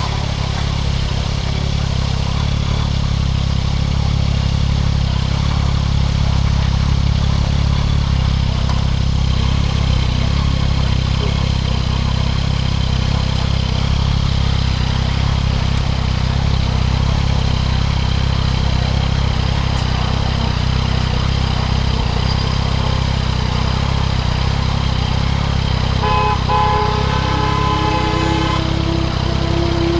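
A 2024 Yamaha MT-09 SP's inline three-cylinder engine, breathing through a Spark triple-exit full exhaust system, running steadily under way at an even speed. A short set of steady pitched tones from another source comes in near the end.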